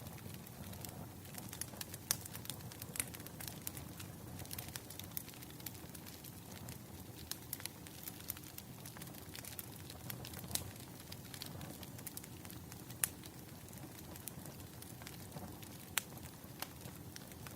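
Firewood burning and crackling: a steady low rush with scattered sharp pops, two louder ones near the end.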